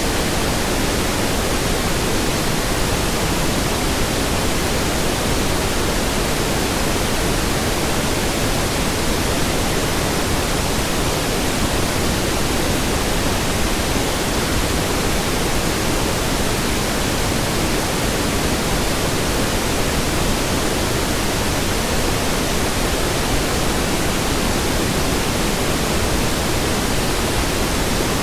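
Steady pink noise: an even, unchanging hiss across the whole range, with no other sound.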